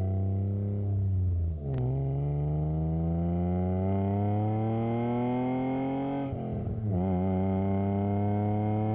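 BMW E30's swapped M50 inline-six with aftermarket camshafts, heard inside the cabin, pulling hard through the gears: its pitch drops at a gear change about one and a half seconds in, climbs steadily for several seconds, drops again at the next shift about six and a half seconds in and starts climbing again.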